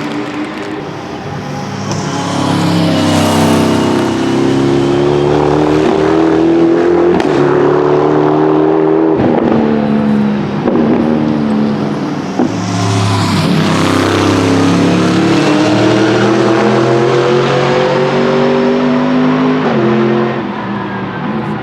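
GT race cars passing at speed, one after another, their engines climbing in pitch and dropping with each upshift. Two passes stand out, a few seconds in and about halfway through.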